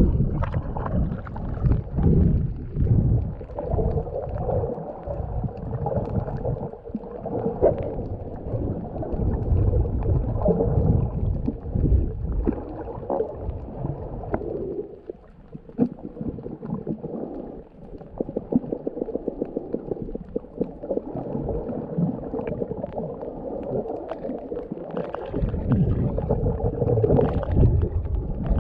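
Muffled underwater rumbling and sloshing of water, surging and easing irregularly.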